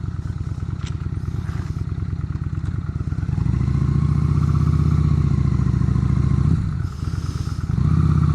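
Motorcycle engine running at low revs, pulsing evenly, opening up louder for about three seconds from about three seconds in and again near the end.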